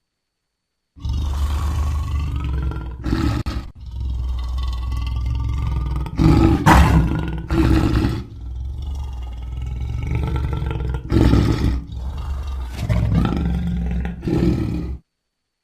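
Lion roaring and growling: a long run of deep, rumbling calls with several louder swells, starting about a second in and cutting off suddenly near the end.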